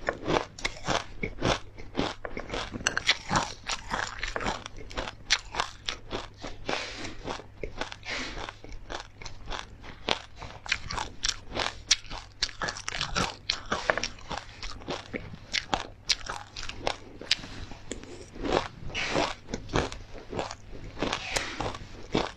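Close-miked chewing and crunching of a mouthful of ice: rapid, sharp crunches following one another several times a second.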